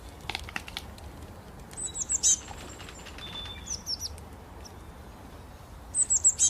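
A small bird chirping: quick runs of high, falling notes about two seconds in and again near the end, with a few single chirps between.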